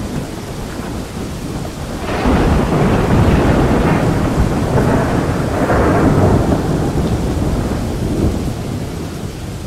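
Steady rain with a long roll of thunder that builds about two seconds in and slowly dies away over the last few seconds.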